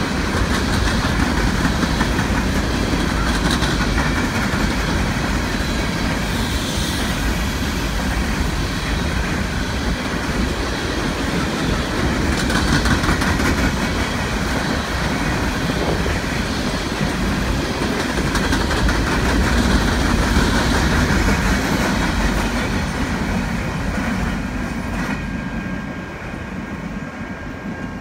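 Empty coal hopper cars rolling past, their wheels clattering over the rail joints with a steady rumble and rattle. The sound fades over the last few seconds as the train moves away.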